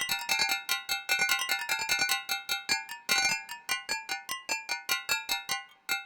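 Nord Drum 3P synth drum module playing a rhythm pattern on a preset kit with pitched, bell-like mallet tones. A quick, even run of ringing strikes thins out near the end.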